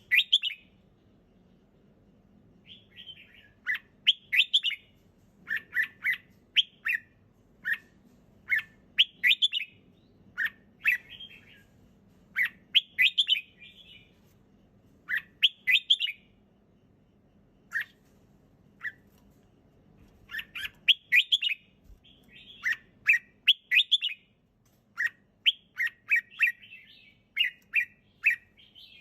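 Red-whiskered bulbul singing: short, quick phrases of chirping notes, repeated every second or so with brief pauses between them.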